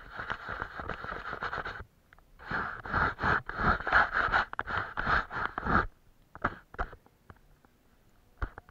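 Rapid scratchy strokes on paper, as of a paintbrush scrubbing paint on, in two runs of a couple of seconds each, followed by a couple of light taps.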